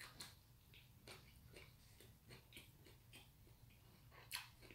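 Faint close-up chewing of a mouthful of gimbap with the mouth closed: soft wet mouth clicks about two a second, one louder near the end, over a faint low hum.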